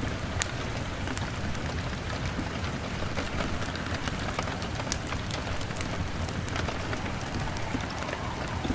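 Steady rain on a window, with many sharp, scattered pops from a crackling fire over a steady low rumble.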